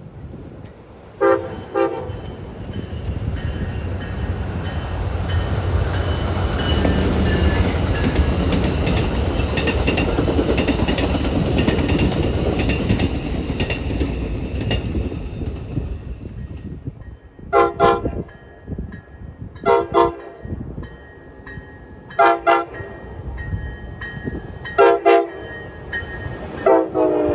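A passenger train's multi-chime horn gives two short blasts, then the train passes at speed with a loud rumble of wheels on the rails for about thirteen seconds. As it fades, a train horn sounds a string of short blasts, some in pairs.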